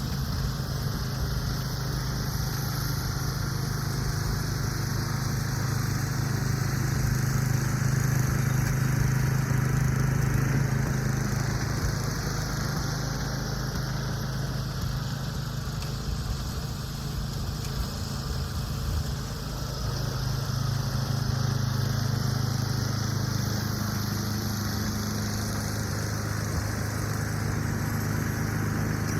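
An engine running steadily, its loudness swelling and easing slowly a couple of times.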